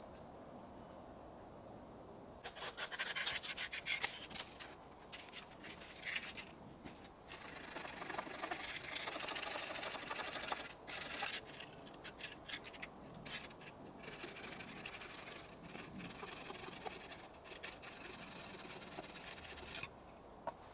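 Hand saw cutting through wood for firewood, rasping in quick back-and-forth strokes. The sawing starts about two and a half seconds in and goes in several runs with short pauses.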